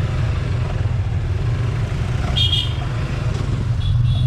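Motorcycle riding on the road: steady engine and wind rumble on the microphone, with two short high-pitched beeps, one about two and a half seconds in and a fainter one near the end.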